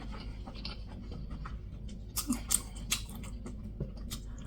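A person chewing and smacking food close to the microphone: faint wet mouth clicks throughout, with a short run of louder smacks about two to three seconds in.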